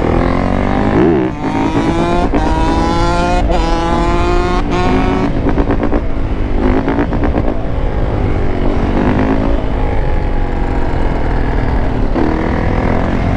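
Dirt bike engine accelerating hard through the gears, its pitch climbing and dropping sharply at each of four quick upshifts, then running at a steadier cruising pitch. Wind rumble is on the microphone throughout.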